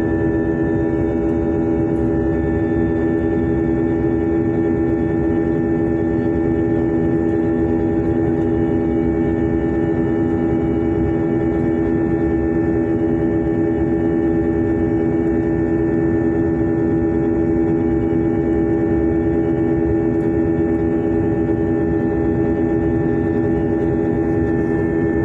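Jet airliner's engines heard from inside the passenger cabin: a steady drone with a constant whine, holding at one level.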